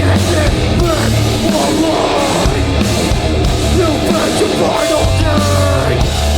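Live hardcore punk band playing loud distorted guitars, bass and drums with shouted vocals, with the song ending abruptly at the very end.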